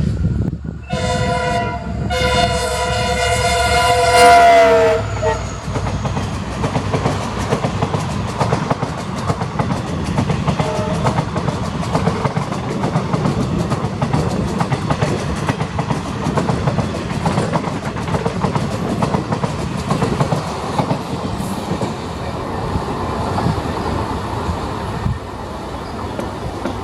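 WDG-4 diesel locomotive sounding its horn as it passes at speed: a short blast about a second in, then a long blast whose pitch drops as the locomotive goes by. The passenger coaches follow with a steady rumble and clickety-clack of wheels over the track.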